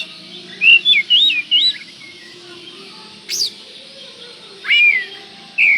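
Oriental magpie-robin (kacer) singing loud whistled phrases: three quick rising-and-falling whistles about a second in, then a short high note and downslurred whistles in the second half. It is a full, vigorous 'gacor' song of the kind played to provoke other magpie-robins into singing.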